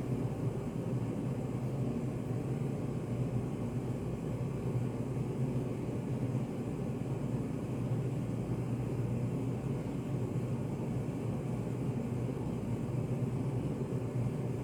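Steady, even low-pitched background noise with no distinct events: study-café white noise.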